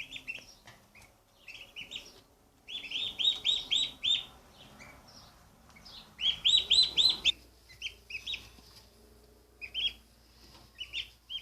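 Day-old turkey poults peeping: rapid runs of high, arching peeps, loudest in quick strings a few seconds in and again after about six seconds.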